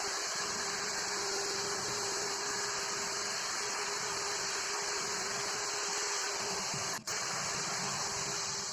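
Steady machine noise: a continuous hiss with a constant hum under it, broken by a very short drop about seven seconds in.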